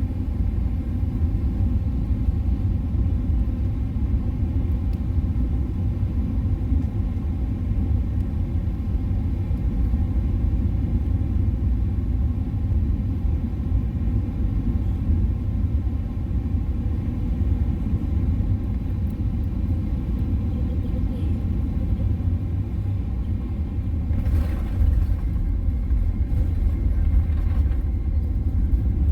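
Steady low rumble of a Boeing 777-300ER heard from inside the cabin on its landing approach. About three-quarters of the way through there is a brief louder rush, and the rumble grows slightly louder toward the end.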